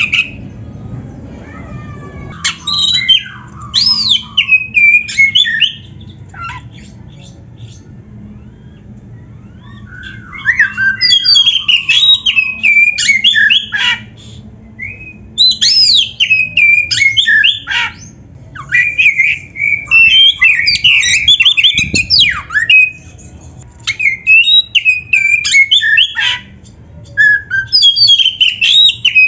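Oriental magpie-robin singing in loud bursts of quick, varied whistled notes that sweep up and down, with short pauses between phrases. A low steady hum runs underneath.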